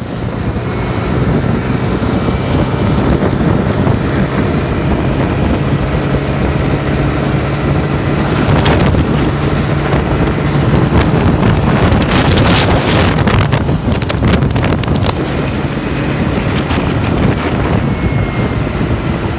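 Motorcycle engine running steadily under heavy wind noise on the microphone, with a few brief sharp high sounds about two-thirds of the way in.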